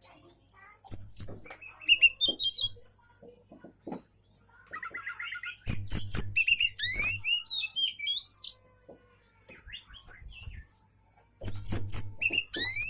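Oriental magpie-robin (kacer) singing in bouts of varied phrases: rapid trills and quick rising whistled sweeps, with pauses between bouts, the fullest bouts coming mid-way and near the end.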